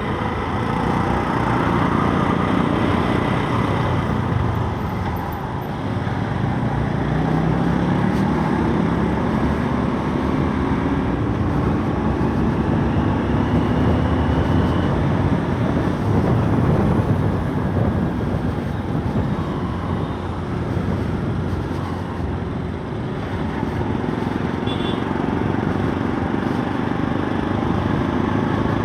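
Motorcycle engine running under way in traffic, its pitch rising several times as it speeds up, over a steady rush of road noise.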